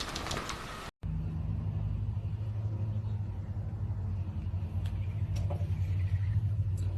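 A steady low rumbling hum with a few faint clicks, starting abruptly about a second in.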